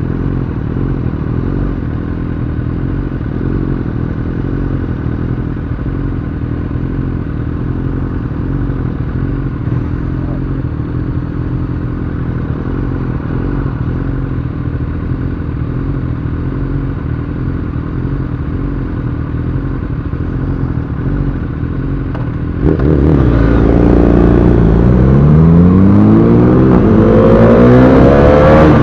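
Single-cylinder engine of a Bajaj Dominar 400 motorcycle running steadily at low revs. About three-quarters of the way through it suddenly gets louder, and the revs then climb as it accelerates.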